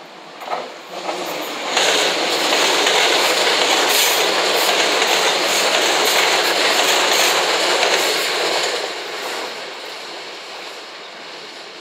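JR West 227 series electric multiple-unit train passing close, climbing a gradient, its wheels running and clacking over the rails. A few sharp knocks come as it arrives. It is loudest from about two seconds in to about nine seconds, then fades as it moves away.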